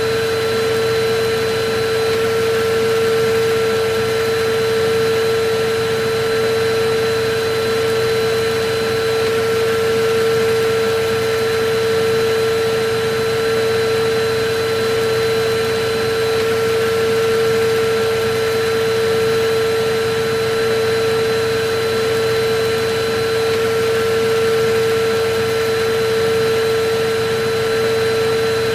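Electric vacuum cleaner running steadily: a constant motor whine over a rushing hiss of air, unchanging throughout.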